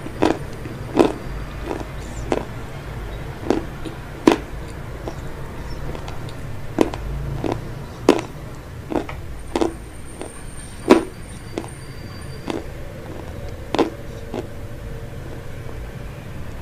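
A person chewing with the mouth closed: short, sharp wet mouth clicks and crunches at irregular spacing, roughly one a second. A steady low hum runs underneath.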